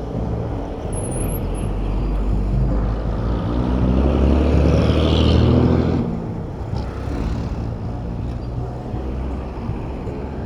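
Road traffic noise with a motor vehicle's engine swelling as it passes close, loudest about halfway through, then dropping away suddenly.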